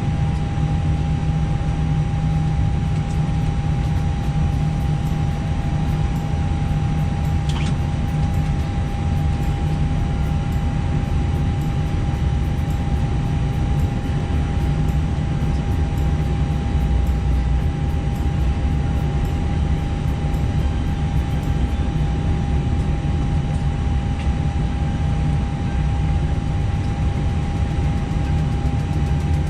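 Steady cockpit noise in an Airbus airliner during engine start, with one engine already running and the next being started. It is a constant low rumble with an unchanging whine.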